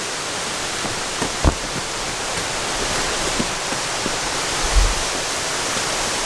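Steady rushing of a waterfall swollen by heavy rain, an even wash of water noise, with a couple of brief low thumps about a second and a half and about five seconds in.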